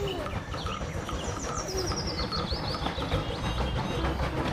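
Small birds chirping and twittering in quick, high, repeated notes over a low, steady noise.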